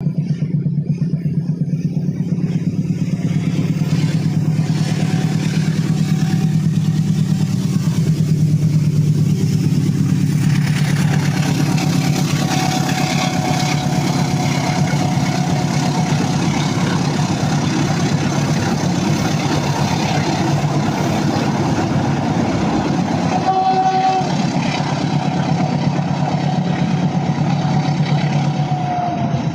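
Indonesian local train running with a steady low drone; a rougher, noisier rumble builds from about ten seconds in, and a thin high tone sounds briefly a few times.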